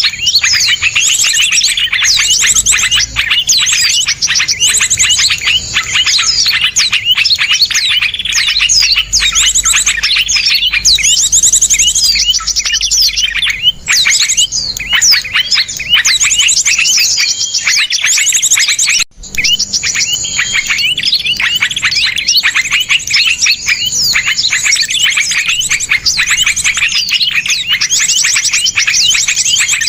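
Small songbirds calling in a dense, overlapping run of sharp rapid-fire chirps and fast trills, the harsh, tightly packed 'tembakan' of a birdsong training (masteran) recording. The calls break off for an instant about two-thirds of the way through, then resume.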